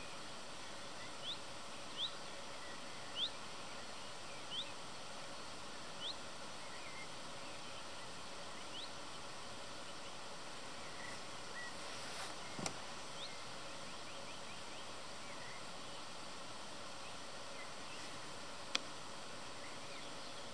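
Open-country ambience with a steady hiss, and a bird repeating one short, rising, high call every second or two, which fades out in the second half. Two sharp clicks, one about halfway through and one near the end.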